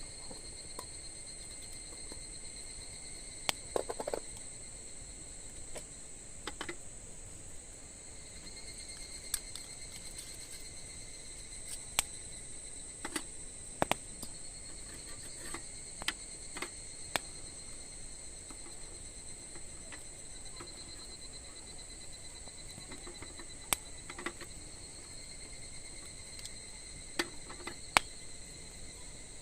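Wood fire crackling, with scattered sharp pops every second or two, over a steady high chirring of insects.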